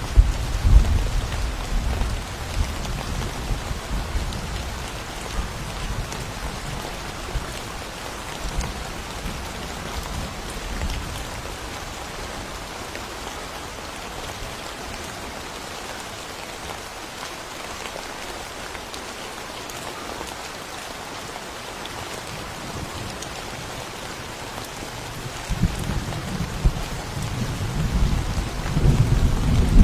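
Steady rain falling in a thunderstorm, with rolling thunder: a low rumble fading away over the first few seconds, and another swelling up near the end.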